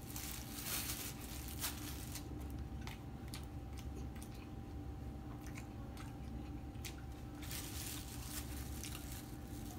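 A man biting and chewing a chicken burger, with scattered crinkles of its plastic wrapper and bags. A faint steady hum runs underneath.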